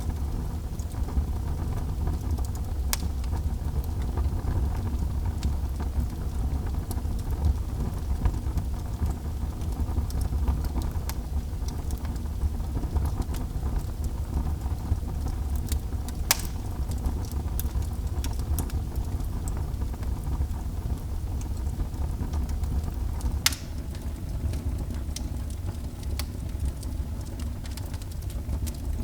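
Fire burning in a fireplace: a steady low rumble with scattered crackles, and a sharper pop a little past halfway and another about four-fifths of the way through.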